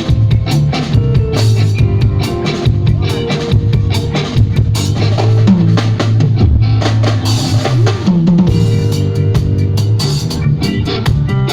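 A live band jamming on drum kit, bass and guitar, with busy drumming and fills on snare, rims and bass drum over a steady bass line.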